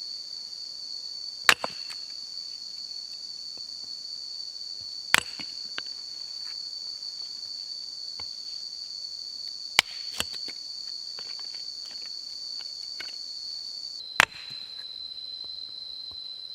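Steady high-pitched drone of jungle insects, like crickets, with four sharp knocks a few seconds apart, the third followed closely by a lighter one.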